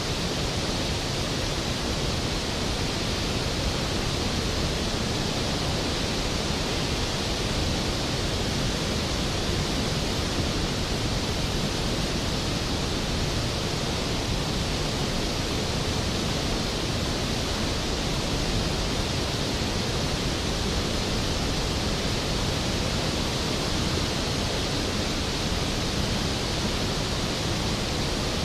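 Skógafoss waterfall's plunging water making a steady, full roar of white noise.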